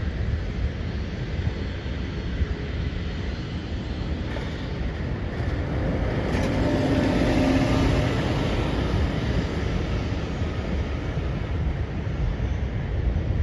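Boeing 737 jet engines running as the airliner passes, the noise swelling to its loudest about halfway through with a low hum in it, then easing off. Wind on the microphone.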